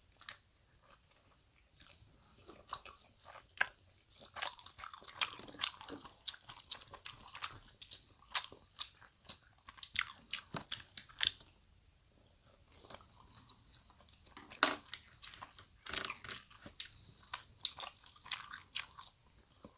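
Close-miked chewing of soft Korean fish cake (eomuk): wet mouth smacks and clicks in quick runs, with a brief lull near the start and another a little past the middle.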